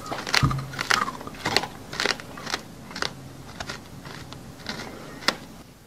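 Crunchy chewing close to the microphone: a mouthful crunched in a steady rhythm of about two bites a second, loudest in the first second and stopping shortly before the end.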